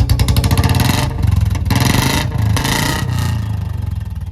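Royal Enfield Bullet single-cylinder engine running through a short-bottle aftermarket silencer with a bend: a pulsing idle, then three quick throttle blips about a second in, settling back to idle near the end.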